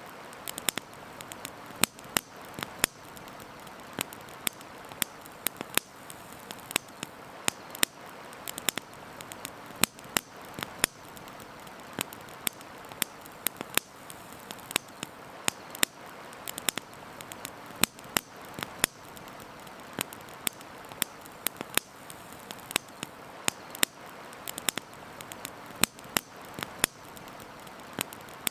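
Campfire crackling, with frequent irregular sharp pops over a steady rushing hiss.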